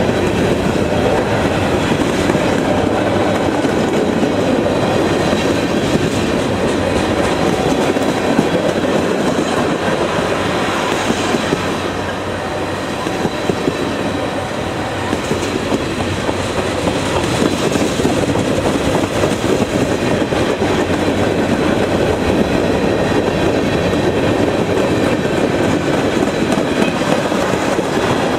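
Railroad cars rolling past, steel wheels clacking over the rail joints with a steady rumble.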